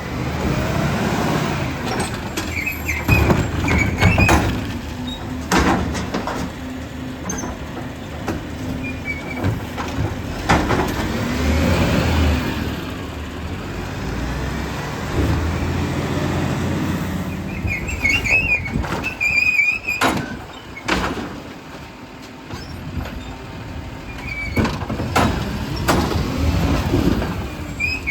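Garbage truck with its diesel engine running, over which come short high squeals and a number of sharp bangs and knocks.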